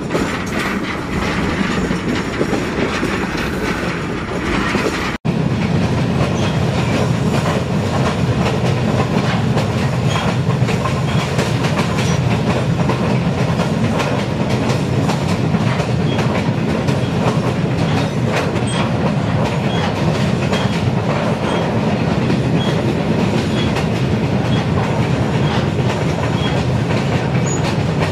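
TAZARA passenger train running along the line, heard from aboard: a steady low rumble and clatter of wheels on the rails. The sound breaks off for an instant about five seconds in, then carries on.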